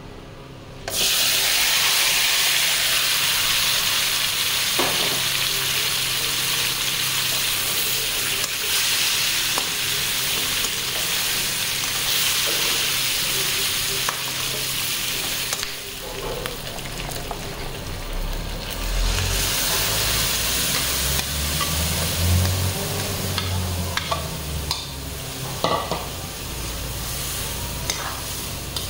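Chicken pieces drop into hot butter in a steel kadai about a second in and sizzle loudly, while a steel spatula stirs and scrapes against the pan with scattered clinks.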